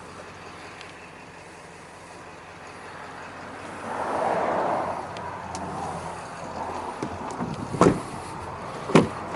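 Handling noise inside a pickup truck's cab: a swell of rustling midway, then two sharp clunks about a second apart near the end.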